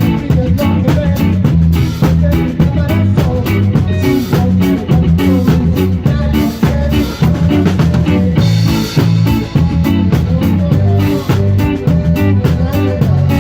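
A live band playing a song with drum kit, bass and guitar in a steady, driving rhythm.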